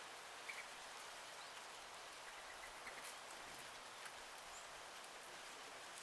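Faint steady hiss with a few faint, short bird chirps scattered through it.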